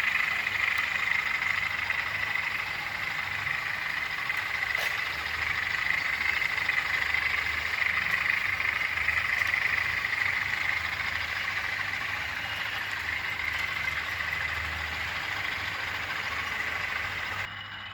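British Rail Class 20 diesel locomotives running with a container train: a steady low engine rumble under a constant high whine. It cuts off abruptly near the end.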